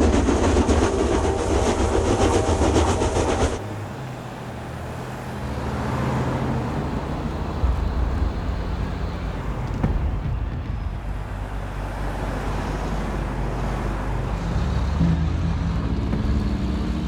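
Train running with a loud, fast rhythmic clatter that cuts off suddenly about three and a half seconds in. It gives way to low, sustained background music.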